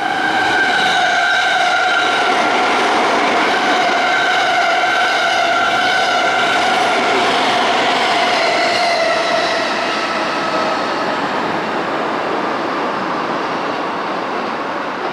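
Sobu Line electric train running close by, with a whine in several stacked tones that slowly drops in pitch and fades out about ten seconds in, over a steady rumble of wheels on rail.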